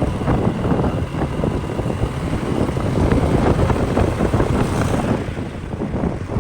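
Wind rushing and buffeting over the microphone of a moving motorcycle, with the bike's road noise underneath.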